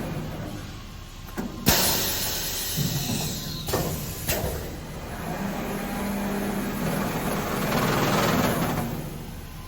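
Automatic laminated glass cutting machine at work: a sudden sharp knock followed by a burst of hissing air, two more knocks, and another swell of hiss near the end, over a low machine hum.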